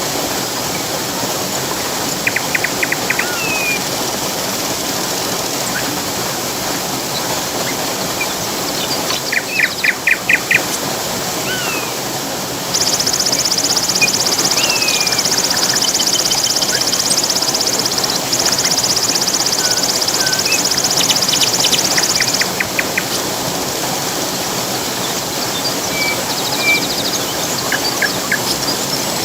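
Steady rushing water of a waterfall with songbirds chirping in short quick series now and then. About a third of the way in, a high, dense buzzing trill starts up over the water, and it stops about two thirds of the way through.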